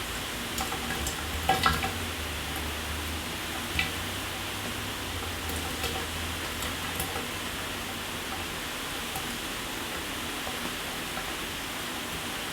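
Shower running: a steady hiss of water spray, broken by scattered sharper splashes and taps, the loudest about one and a half seconds in. A low hum underneath fades out about two-thirds of the way through.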